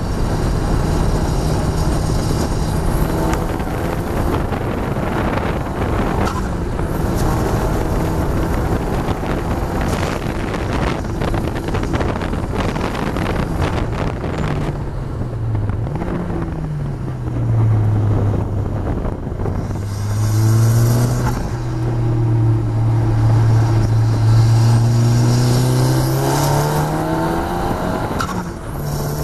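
KTM X-Bow's Audi 2.0-litre turbocharged four-cylinder engine heard onboard at speed on track, with wind buffeting the microphone in the open cockpit. About halfway the engine note dips as the car brakes from about 105 mph and changes down. It then runs lower and rises again near the end as the car drives on.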